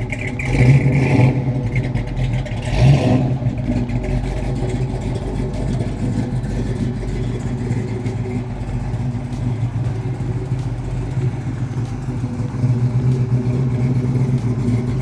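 Stroked 480-cubic-inch 426 Hemi V8 of a 1970 Plymouth 'Cuda running, with two brief louder surges about one and three seconds in, then settling into a steady idle.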